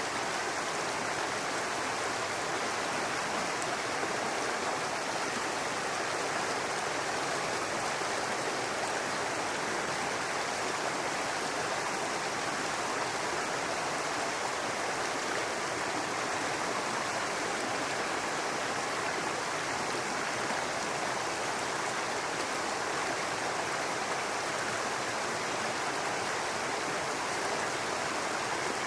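A small brook babbling and rushing over rocks, a steady, even wash of running water.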